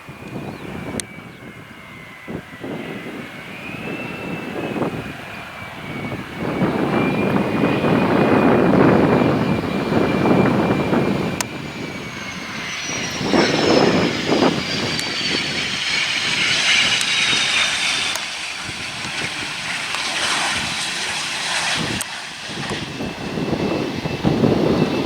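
Twin turbofan engines of a Cessna Citation XLS business jet running: a steady high whine over a broad engine noise that grows louder, then a second, higher whine that falls steadily in pitch over several seconds about halfway through.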